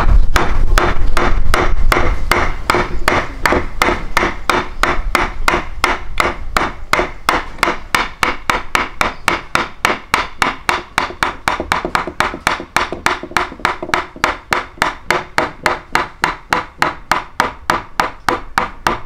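Steady, rapid hammering or knocking, about four strikes a second, each strike giving a short ring.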